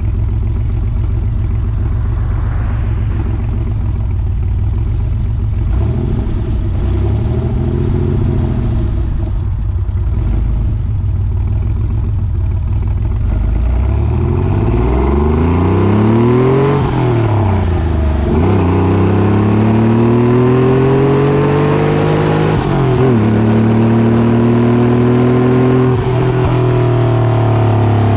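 Air-cooled flat-six of a 1991 Porsche 964 through a newly fitted aftermarket exhaust, first running steadily, then pulling hard about halfway through with the revs climbing. The pitch drops at two upshifts, about three seconds apart.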